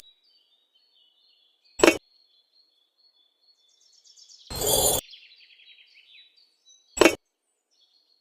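Small birds chirping faintly, broken by two short sharp knocks, about two and seven seconds in, and a louder half-second rushing burst about four and a half seconds in.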